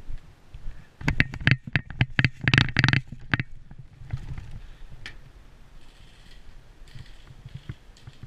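Airsoft electric rifle (AEG) firing: a string of quick single shots, then a short rapid burst. A low rumble of handling noise on a body-worn camera runs underneath.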